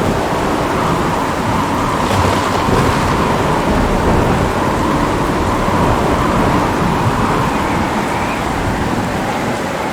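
Steady heavy rain pouring, with a continuous low rumble of thunder underneath.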